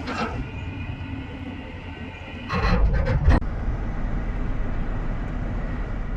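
Truck towing a three-axle dump trailer on the road, with steady engine and road rumble and a loud clattering rattle from the trailer about two and a half seconds in, lasting about a second.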